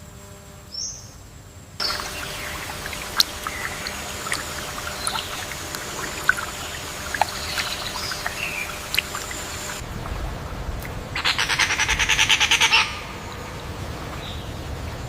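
Bird chirps and short calls with sharp ticks over a steady hiss of ambience that starts abruptly about two seconds in. Later a loud, fast rattling trill lasts about a second and a half.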